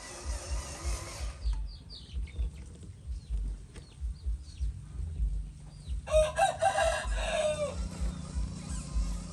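A rooster crows once, starting about six seconds in and lasting under two seconds. Faint short bird chirps come before it, and irregular low thumps run underneath.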